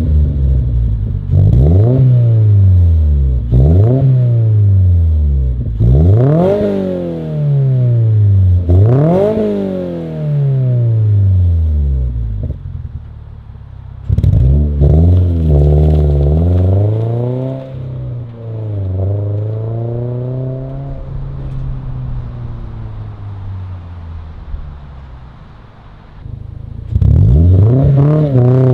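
A 2022+ Toyota GR86's 2.4 L flat-four revving through a Magnaflow NEO stainless catback exhaust. It gives a run of quick rev blips that climb fast and fall back, then holds higher revs for several seconds, drops lower and quieter, and blips sharply again near the end.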